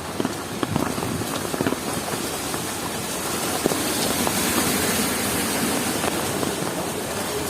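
Heavy rain falling, with a constant patter and sharp drops ticking close by. A steadier rushing noise swells up about three and a half seconds in and holds.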